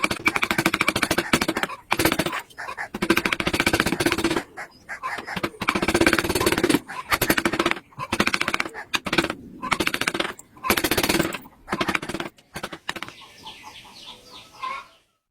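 Power carving tool cutting wood in repeated bursts of about one to two seconds each, a loud rapid rattle. It gives way to a quieter, different sound for the last two seconds or so.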